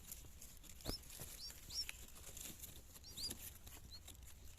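Faint, thin begging cheeps of yellow-vented bulbul nestlings, short high chirps that rise and fall, about seven at irregular intervals, with a few soft clicks among them.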